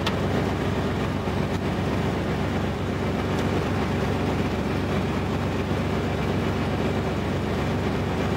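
1991 Oldsmobile Bravada's 4.3-litre V6 engine idling steadily, a low even hum with a few faint clicks over it.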